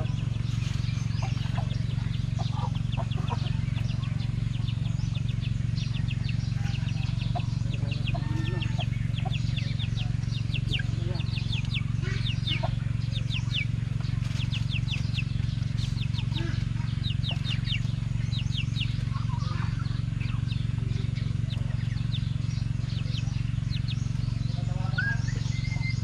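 Birds chirping in rapid runs of short, high, falling notes, over a steady low hum.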